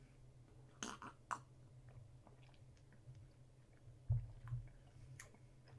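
Close-up mouth sounds of a person chewing a syrupy peanut butter and jelly sandwich, with a few sharp wet smacks near the start and a low thump about four seconds in.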